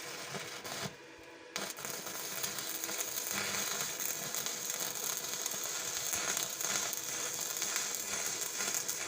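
Electric welding arc crackling and sizzling as a welding machine is tested. The arc drops out about a second in, is struck again half a second later, and then burns steadily.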